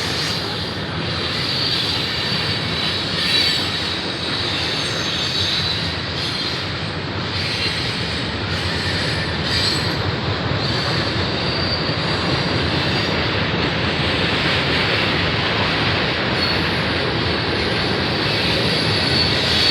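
Long freight train rolling past close by: steady rumble of steel wheels on the rails, with a high wheel squeal that comes and goes.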